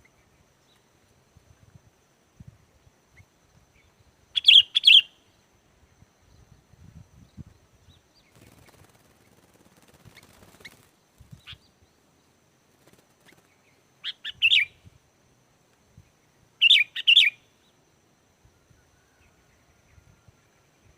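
Sooty-headed bulbul (kutilang) singing three short, fast phrases of several quick notes each: one about four seconds in, then two more about two and a half seconds apart past the middle, each under a second long. Faint soft knocks and rustles between the phrases.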